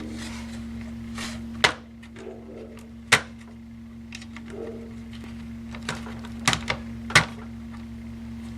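Sharp clicks and light knocks from a laptop and a screwdriver being handled during disassembly: one about one and a half seconds in, one about three seconds in, and three close together near the end. A steady low electrical hum runs underneath.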